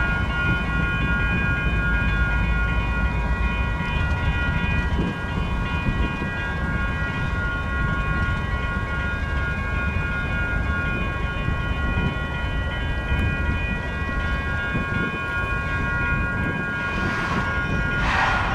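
Union Pacific freight train's cars rolling slowly past the grade crossing with a steady low rumble, while the crossing's warning bell rings steadily above it. A short hiss comes near the end.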